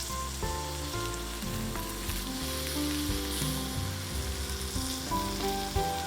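Food sizzling as it fries in a pan, a steady hiss, under background music with a melody of held notes.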